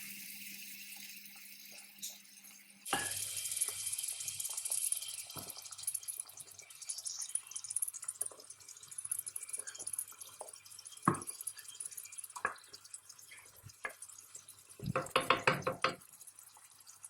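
Water running from a tap into a sink, getting louder about three seconds in, with scattered clinks and knocks and a short rapid clatter near the end.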